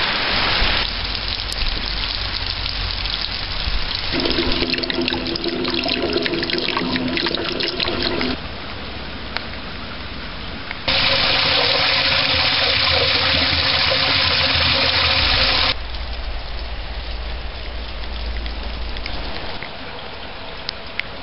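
Summer rain shower: rain falling and rainwater running and splashing over wet asphalt. The sound is steady within each stretch but changes abruptly several times, and is loudest in the middle.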